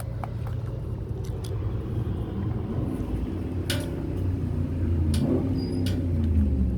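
Steady low rumble of an idling car engine, with a few short clicks and rustles on top.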